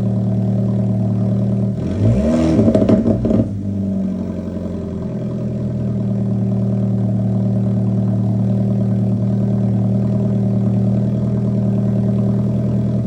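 A 2015 Alfa Romeo 4C's 1.75-litre turbocharged four-cylinder engine idles on a cold start. About two seconds in it gets a brief blip of revs that rises and falls back within about a second and a half, then settles into a steady idle.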